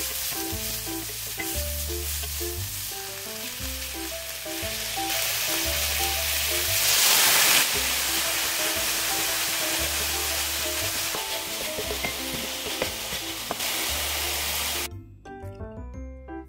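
Cocktail sausages, onion and bell pepper sizzling in a hot cast-iron skillet, stirred with a wooden spatula. The sizzle swells briefly about seven seconds in and stops suddenly near the end.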